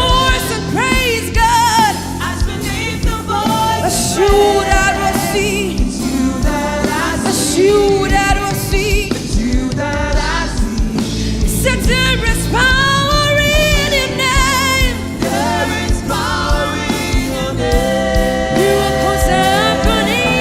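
Gospel worship song: a sung melody with vibrato over steady band accompaniment.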